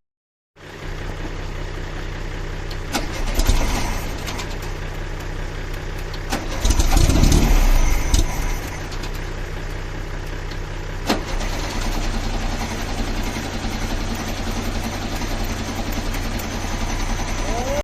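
Air-cooled flat-four engine of a 1971 Volkswagen Beetle running at a steady idle, with a brief rise in revs about seven seconds in before it settles back to idle.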